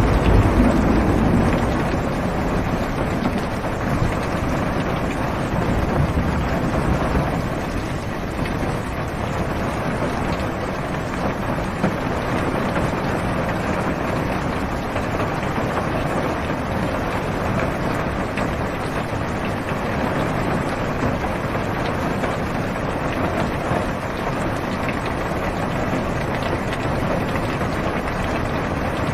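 Heavy rain drumming steadily on a car's roof and windows, heard from inside the cabin, with a low rumble fading away in the first couple of seconds.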